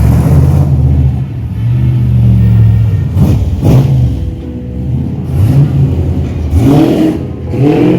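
A car engine runs with a deep, low note and is revved several times in the second half, its pitch rising and falling with each blip of the throttle.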